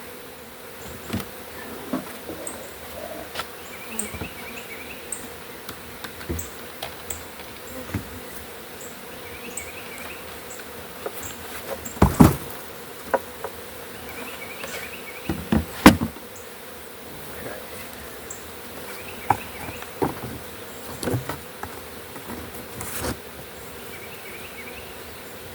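Honey bees of a swarm buzzing steadily around an opened hive box, with irregular knocks and clicks, the loudest about 12 and 16 seconds in.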